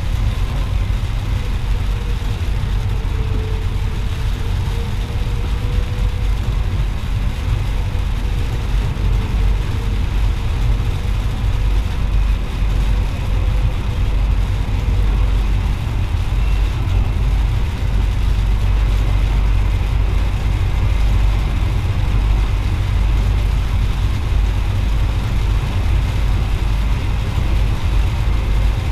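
Steady low rumble of a VIRM double-deck electric train running along the track, heard inside the driver's cab, with a faint thin whine over it.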